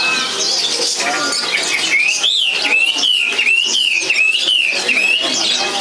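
Many caged songbirds chirping and singing together; from about two seconds in, one bird repeats a clear whistled up-and-down phrase about six times in quick succession.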